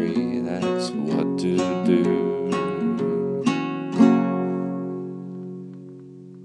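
Acoustic guitar playing the closing bars of a song, ending on a strummed chord about four seconds in that rings out and fades.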